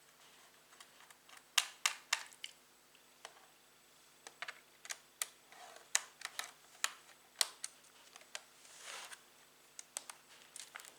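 Irregular sharp clicks and taps of a laptop's plastic case and small parts being handled, with a couple of brief scraping sounds.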